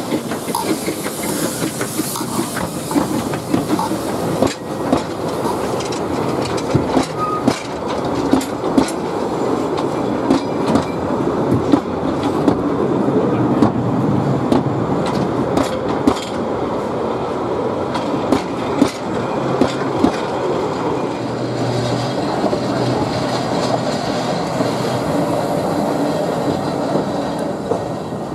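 Narrow-gauge Talyllyn Railway train running along the track: a steady rumble with frequent sharp, irregular clicks as the wheels pass over rail joints.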